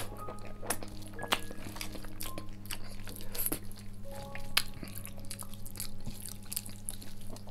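Chewing and mouth clicks of a person eating rice and curry, with soft squishing as his fingers mix rice on a steel plate. A steady low hum runs underneath.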